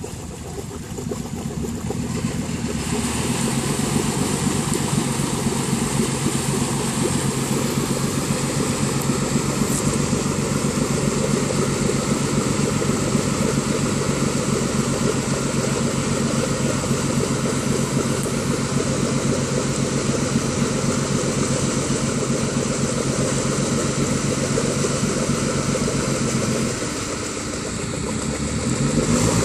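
Off-road 4x4 engine held at steady raised revs during a winch recovery of a Land Rover stuck in mud. Near the end the revs fall briefly, then rise again.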